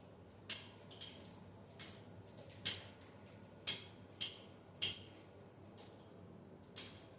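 Irregular sharp metallic clinks and taps, about eight over several seconds, each with a short ring, like tools or metal fittings being handled and knocked together.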